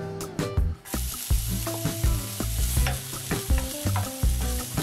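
Minced garlic sizzling in hot oil in a frying pan as it is stirred with a wooden spatula. The sizzle starts about a second in, over background music with a steady beat.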